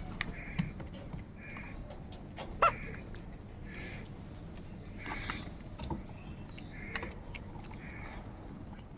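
Crows cawing, short calls repeating about once a second, mixed with scattered sharp clicks and one louder knock about two and a half seconds in.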